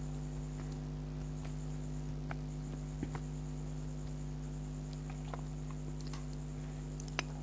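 A steady electrical hum with a faint high whine above it, and scattered soft clicks and ticks, the sharpest one near the end.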